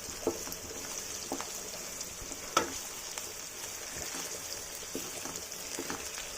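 Sliced onions sizzling in oil in a kadai, fried soft and nearly done, while a spoon stirs and knocks against the pan several times, loudest about two and a half seconds in.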